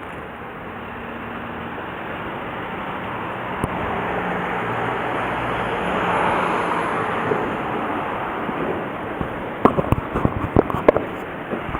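Road noise that swells and fades as a vehicle passes, followed near the end by a quick run of sharp clicks and knocks.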